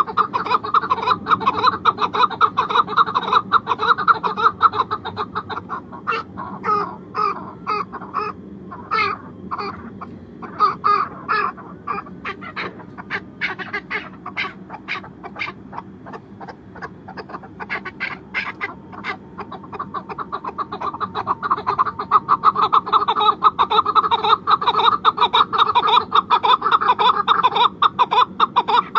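A flock of birds calling all at once in a dense, rapid chatter. It thins to separate calls in the middle, then swells back to a dense chatter.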